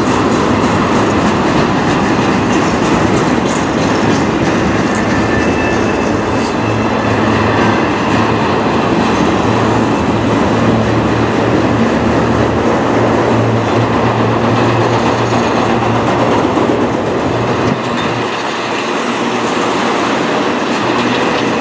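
Empty autorack freight cars rolling past: a steady rumble and rattle of steel wheels on the rails, with no locomotive in the sound, easing off slightly near the end.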